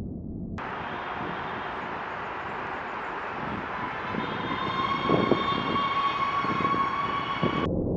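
Jet airliner engines running loud, with a steady turbine whine over a rushing roar. The whine rises slightly, and the sound grows louder about five seconds in. The sound switches in abruptly just after the start and cuts off just before the end.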